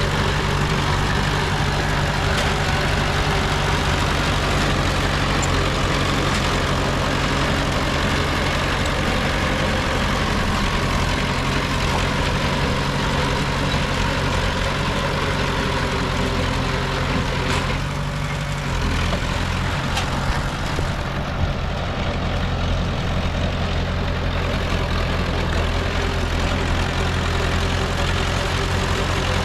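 Diesel engine of heavy earthmoving machinery running steadily at a work load. Its note drops to a lower, steadier pitch about two-thirds of the way through, with a few light knocks around then.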